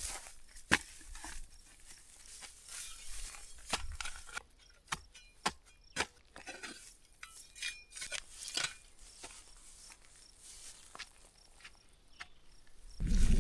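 Scattered light clicks, knocks and rustling from handling things by hand. Near the end, wind starts buffeting the microphone with a loud low rumble.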